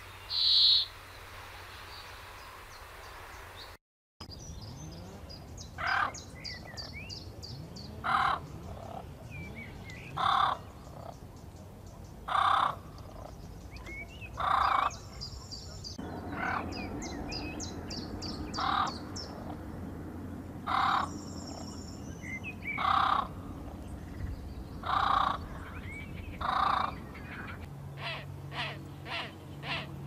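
Birds calling: a harsh, cawing call repeated about every two seconds, with quick high twittering from smaller birds in between.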